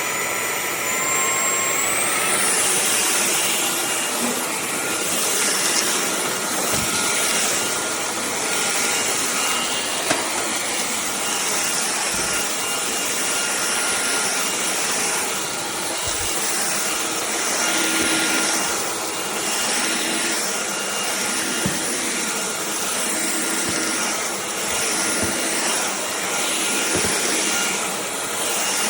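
Cordless stick vacuum cleaner running: its motor whine rises in pitch during the first couple of seconds as it spins up, then holds steady under a loud rushing of air. The airflow noise swells and eases every second or two.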